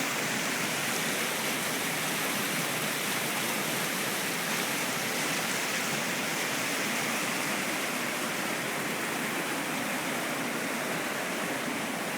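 Waterfall pouring with a steady, even rush of falling water.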